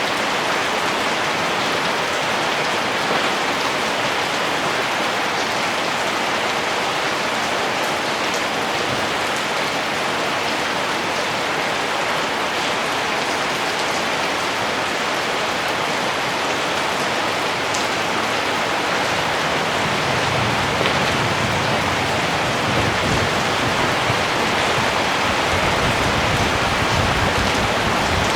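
Steady rain falling, an even hiss of many drops. About two-thirds of the way through, a low rumble comes in underneath and the sound gets slightly louder.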